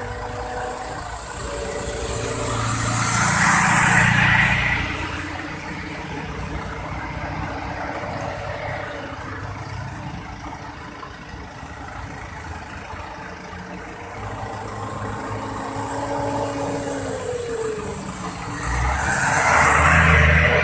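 Scania 580 V8 truck engine running. Its sound swells louder twice, about three seconds in and again near the end, each time with a rush of hiss over the low engine note. In between, the engine note drops in pitch.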